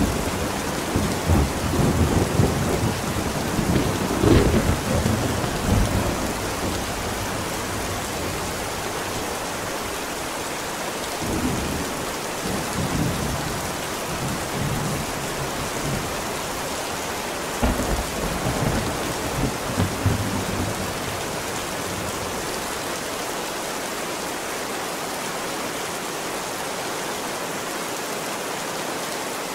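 Steady rain with rolling thunder that rumbles through the first several seconds and again twice around the middle, then rain alone near the end.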